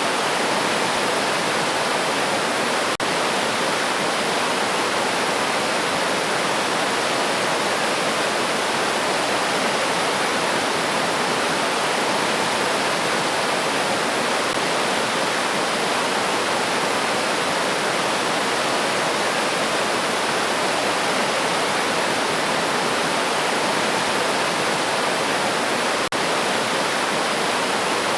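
Steady rushing of a river stream's flowing water. It cuts out for an instant twice, about three seconds in and near the end.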